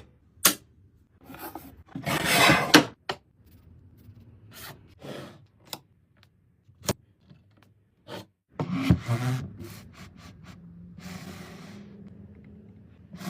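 Hand work on wood: irregular rubbing and rasping strokes, with several sharp knocks or clicks between them. A faint low hum joins from about two-thirds of the way in.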